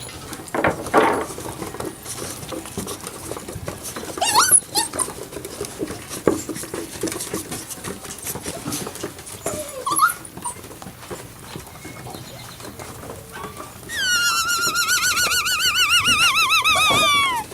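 Puppies whimpering, with a few short high yelps, then one long, loud, high wavering whine with a fast wobble in pitch for the last few seconds.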